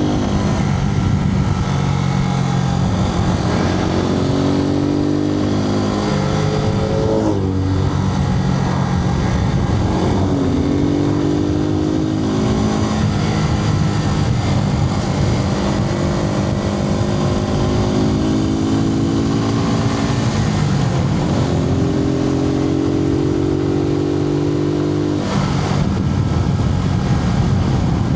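Suzuki TU250X's single-cylinder four-stroke engine heard from inside the rider's helmet, running under way, its pitch climbing as it pulls and dropping at gear changes several times, under a steady rush of wind noise.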